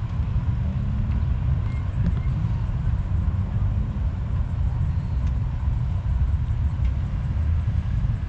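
Dodge Challenger driving at a steady pace: a continuous low engine and road rumble with no revs or changes.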